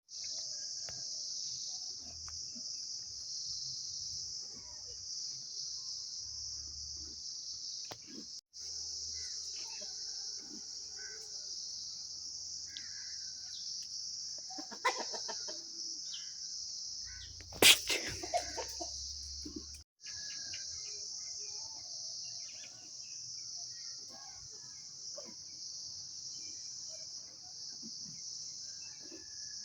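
A steady, high-pitched insect chorus runs throughout, with chickens clucking now and then. A louder fowl call comes about 15 seconds in, and the loudest at about 18 seconds.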